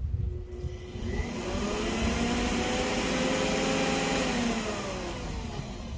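Sun Joe CJ601E 14-amp electric wood chipper motor switched on, its whine rising in pitch as it spins up, running steadily for a couple of seconds, then switched off and winding down in pitch near the end.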